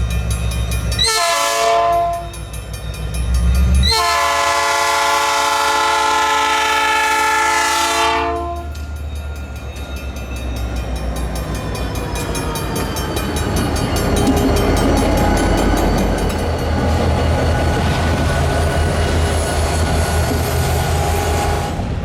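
Diesel locomotive's multi-chime air horn sounding a short blast about a second in, then a long blast of about four seconds, the end of a grade-crossing signal. After the horn stops, the locomotive and freight cars roll past with a steady rumble, their tones falling in pitch as they pass.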